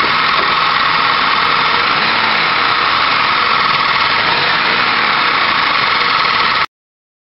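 GM 3800 Series II 3.8-litre V6 idling steadily, with the ticking sound the owner takes for an engine problem. The sound cuts off suddenly near the end.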